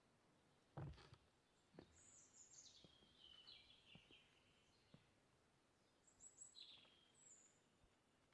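Faint birdsong: a few high chirps gliding downward, with a soft low thump about a second in and a few light taps.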